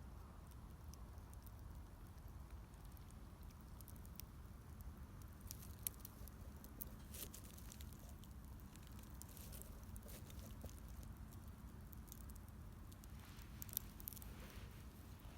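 Wood fire crackling faintly, with scattered soft snaps and a sharper pop about six seconds in and another near the end, over a low steady rumble.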